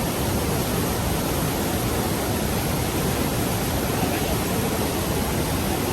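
The Rhine Falls' water pouring down, a steady, unbroken rush of noise.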